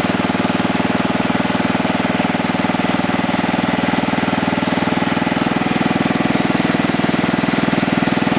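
Sears garden tractor's small gas engine running steadily at a set throttle after a choked start, with an even run of firing pulses and no change in speed.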